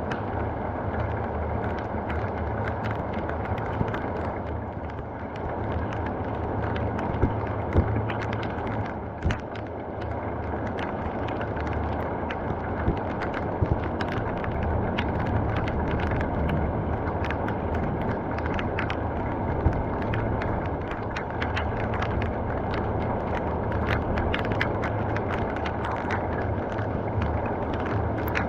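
Heavy rain falling steadily, a constant hiss with many sharp drop and splash clicks scattered through it and a handful of louder ones.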